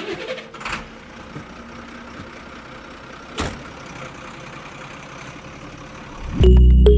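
Small motor running steadily with a noisy whir, with short knocks about a second in and again about three and a half seconds in.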